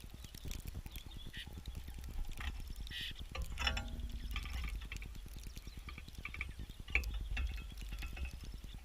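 Small birds at a feeder: rapid faint tapping and scuffling on the feeder, with a few short chirps, over a low wind rumble.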